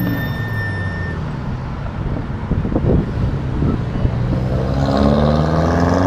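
Car engines running as cars drive slowly past, with one engine revving up, its pitch rising, near the end.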